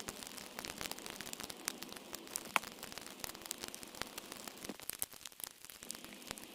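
A burning pile of yard debris and blackberry vines crackling and popping irregularly, with one sharp pop about two and a half seconds in, over a steady hiss of light rain.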